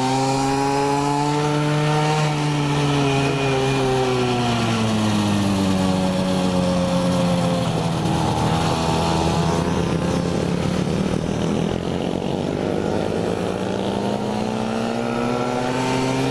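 Mini moto's small engine running under way, its pitch holding high at first, sinking slowly over several seconds as it slows, then climbing again near the end as it speeds back up.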